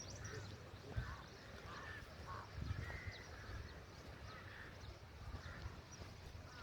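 Birds calling in short repeated notes, about one or two a second, with faint higher chirps over a low rumble.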